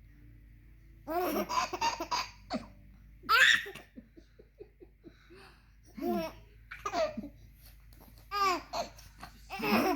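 A toddler laughing hard in a string of bursts that start about a second in, the loudest a high-pitched one about three seconds in.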